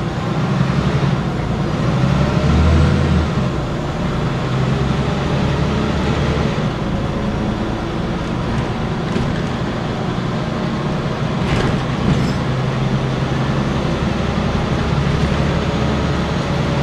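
Scania N94UB single-deck bus with East Lancs Esteem body on the move, its diesel engine droning steadily with the note rising and falling. A single sharp click about eleven and a half seconds in.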